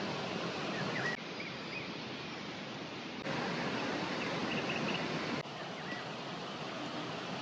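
Steady rush of river water, its loudness stepping down and back up abruptly a few times, with a few short bird chirps over it.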